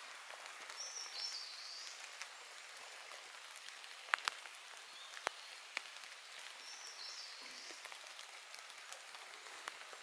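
A songbird sings a short phrase of high notes twice, about a second in and again about seven seconds in, over a steady hiss. A few sharp clicks come around the middle.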